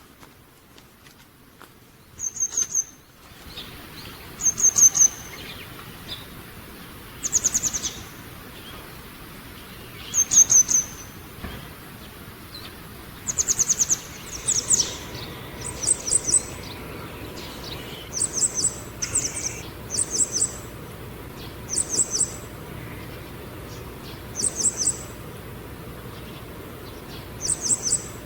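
A small songbird calling: short bursts of rapid, very high-pitched notes, repeated every one to three seconds and coming more often in the second half.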